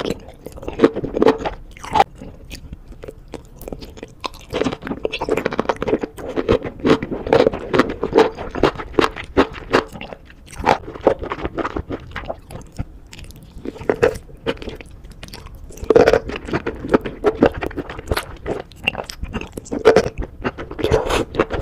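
Close-miked chewing and biting of spicy sauce-coated enoki and other mushrooms: a dense run of short crunching, wet clicks, in busier stretches with brief lulls between mouthfuls.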